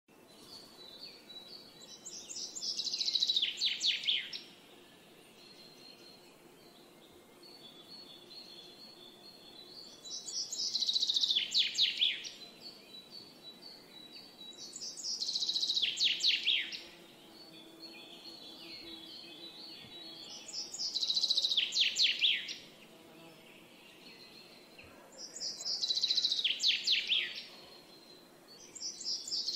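A songbird repeating a short song every few seconds, each a quick run of notes falling in pitch, with fainter chirps from other birds in between.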